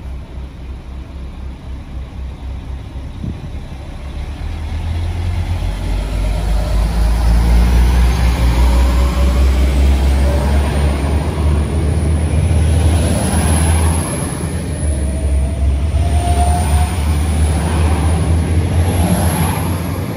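Electric train running past: a heavy low rumble grows louder about four seconds in and stays loud, with faint whines that rise in pitch and a thin high squeal over the top.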